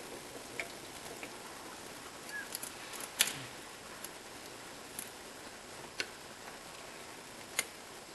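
Sharp, irregularly spaced clicks and taps, about seven in all, from hand tools and metal parts being handled on the engine. The loudest comes about three seconds in.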